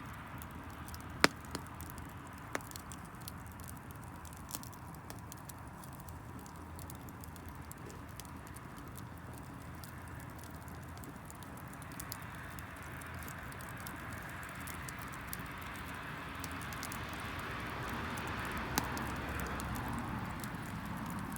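Wood fire of damp firewood crackling, with many small ticks and a couple of sharp pops in the first few seconds, and a hiss that swells near the end.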